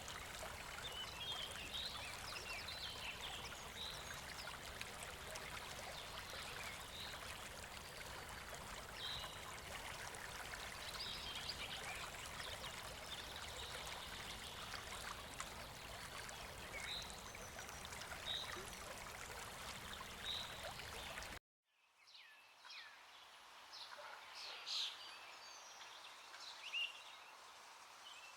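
River water rushing steadily, with small birds chirping over it. About three-quarters of the way through the rushing cuts off abruptly, leaving a much quieter background where birds go on chirping.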